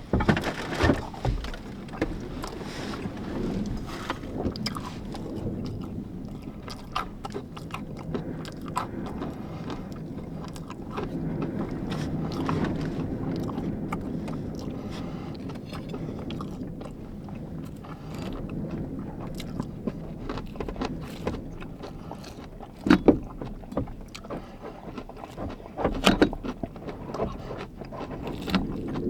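Strong wind rumbling steadily against a van, with many small clicks, scrapes and knocks from close by, and two louder knocks near the end.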